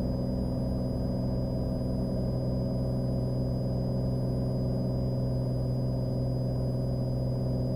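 Cessna Skylane's piston engine and propeller droning steadily in the cabin, with a faint steady high whine over it.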